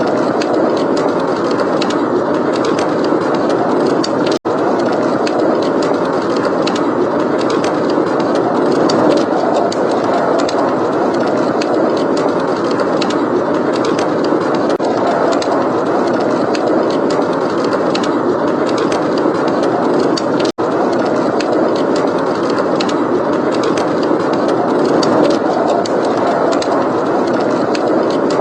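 Steady blizzard wind noise with a wood fire crackling over it in many small sharp snaps. The sound cuts out for an instant twice, about four seconds in and again about twenty seconds in.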